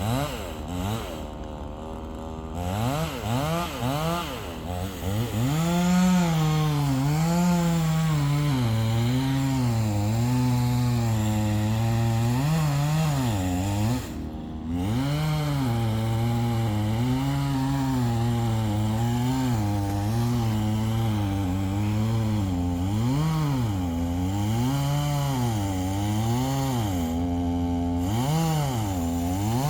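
Two-stroke chainsaw cutting into a tree, its engine pitch rising and falling over and over as it works in the cut. The sound dips briefly about halfway through.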